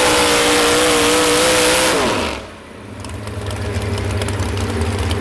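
Modified 4x4 pulling truck's engine running at high revs. About two seconds in the throttle comes off and the revs fall away fast, then the engine settles into a low, steady rumble at idle.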